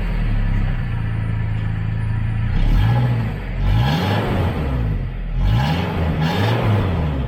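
Small pickup truck's four-cylinder engine idling just after starting, then revved in a series of short blips, each rising and falling in pitch, from about three seconds in.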